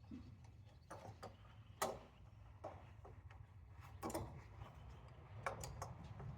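Scattered, irregular clicks and clinks of an oil filter wrench on a new oil filter as it is tightened. The loudest click comes about two seconds in.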